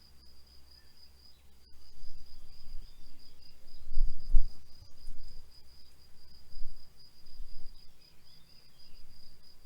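A cricket chirping in a fast, steady pulse of one high tone, with a low rumble that swells and peaks about four seconds in, then fades.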